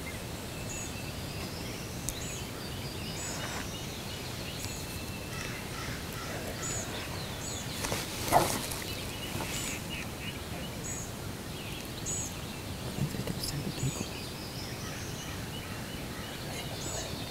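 A wild turkey gobbler gobbles once, loud and sudden, about eight seconds in, over small songbirds chirping repeatedly. A few soft low thumps follow a few seconds later.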